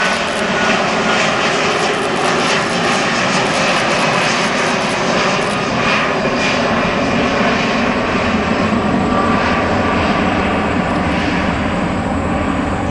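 Airbus A330-300's Rolls-Royce Trent 700 jet engines running at high power, a loud continuous rush of noise with steady fan tones through it.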